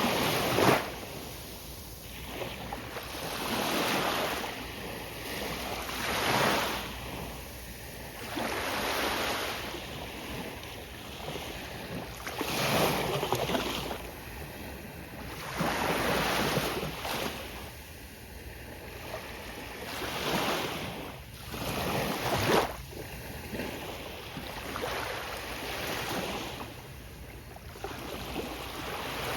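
Gentle ocean waves breaking on a beach and washing in, one swell of surf every two to four seconds.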